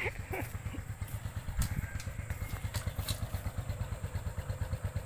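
Small motorcycle engine idling with an even, rapid putter, with a few light clicks about one and a half and three seconds in.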